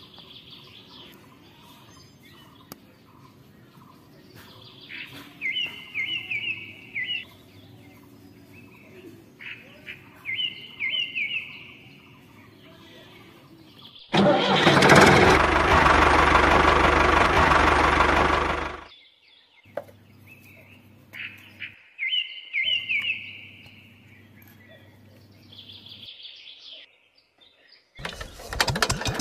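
Small birds chirping in short quick repeated phrases over a faint low hum. About halfway through, a loud, steady engine-like noise runs for about five seconds and cuts off suddenly; a similar loud noise starts again just before the end.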